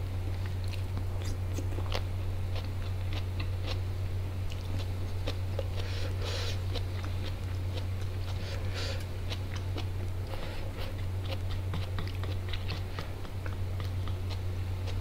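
Close-miked chewing of biryani and meat eaten by hand, with many small wet mouth clicks, over a steady low hum.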